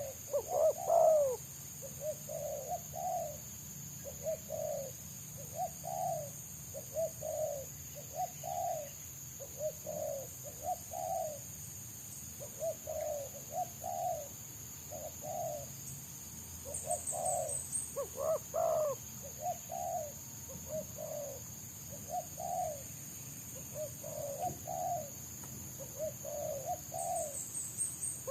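Spotted doves cooing in a fast, close-set run of short coos, one after another with barely a pause, a few of them louder than the rest.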